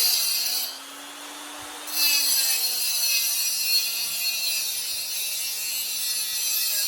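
Small high-speed power tool cutting the lip off a turbo-whistle exhaust insert. Its motor runs throughout with a steady hum that drops in pitch while it bites. A harsh grinding hiss comes briefly at the start, then again from about two seconds in until near the end.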